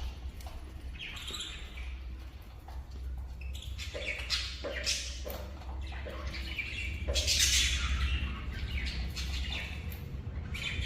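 Cockatiel chirping and whistling in a string of short calls, with a louder, busier run of calls about seven seconds in, over a steady low hum.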